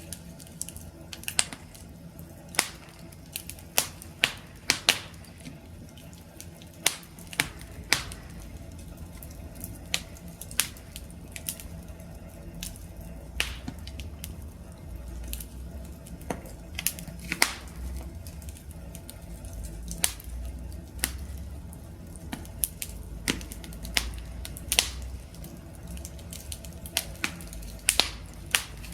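Wood fire crackling: irregular sharp pops and snaps, one or two a second, over a low steady rumble of burning.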